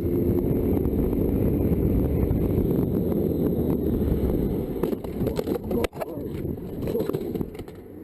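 Low rumble of a motorcycle ride: engine, wind and road noise, with scattered knocks and scrapes in the second half. It drops away near the end.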